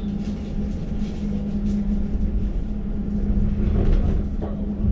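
Elizabeth line Class 345 train standing at the platform, its onboard equipment giving a steady low hum over a low rumble.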